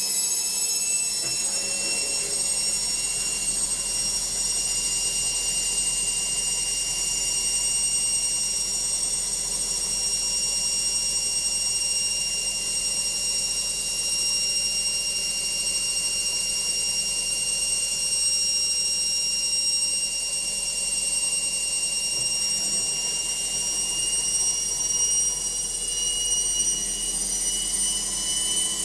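Logik washing machine in its final spin: the drum spinning at speed with a steady high-pitched motor whine that rises slightly near the end.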